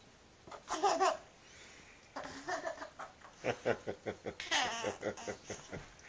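A baby laughing in a string of short bursts.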